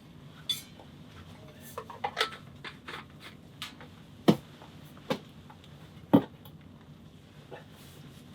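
Irregular knocks and clatters of objects being handled, with two louder, deeper thuds a little past four and six seconds in.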